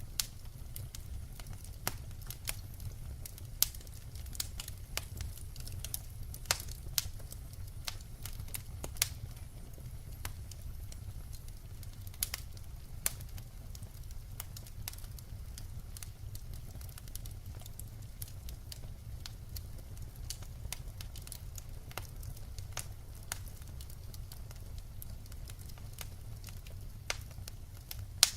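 Wood fire burning, crackling with irregular sharp pops, a few of them louder, over a steady low rumble.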